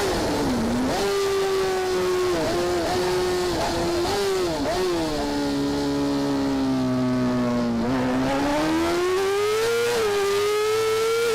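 Racing motorcycle engine running at high revs, its pitch dropping sharply several times in quick succession as it changes gear, then falling slowly and climbing again as it accelerates.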